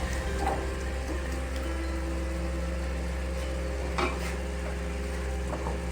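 Metal serving spoon scraping and clinking against a cooking pot while a curry is served out, over a steady low hum. One sharper knock comes about four seconds in.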